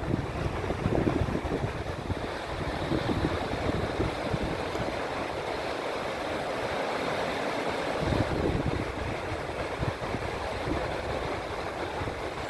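River in high water rushing steadily, with wind buffeting the microphone in low, uneven gusts.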